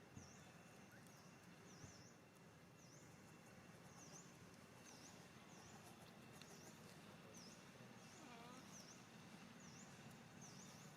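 Faint outdoor ambience with a small bird calling over and over: a short, high note that dips and rises again, about once a second and sometimes doubled.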